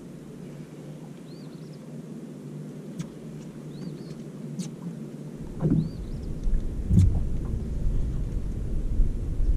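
Low rumble of wind buffeting the microphone, growing louder about halfway through, with a few sharp knocks. A bird repeats a short rising-and-falling chirp every two to three seconds.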